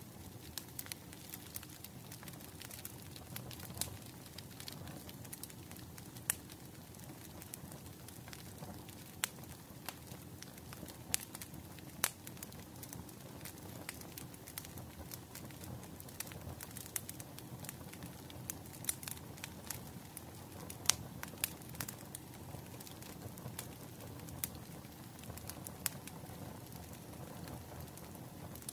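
Bonfire crackling: irregular sharp pops and snaps over a low, steady rumble of burning wood.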